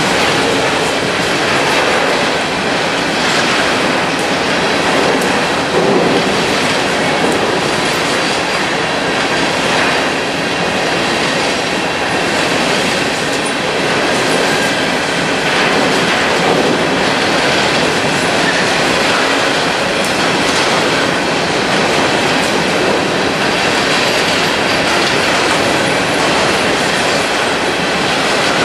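Coal hopper cars of a long freight train rolling steadily past, the loud, continuous rumble and clatter of steel wheels on the rails.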